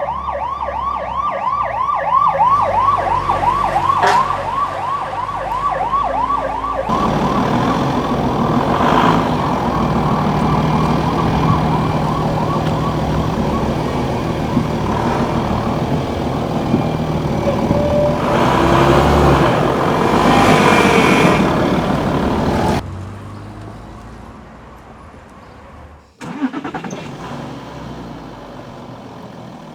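A fire-truck-style siren in a fast yelp, its pitch sweeping up over and over several times a second. About seven seconds in it gives way to a louder mix of engine rumble and noise, which drops off suddenly near the end.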